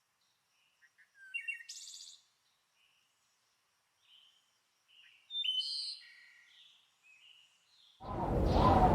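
Bird calls: a string of short chirps and whistles, some sliding in pitch, spread over the first eight seconds with silence between them. Near the end a loud, steady rushing noise sets in.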